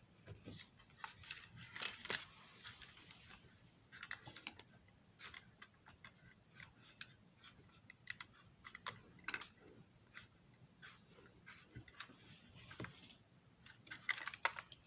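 Faint, irregular light clicks and small scrapes of parts being handled and fitted onto a model railroad passenger car.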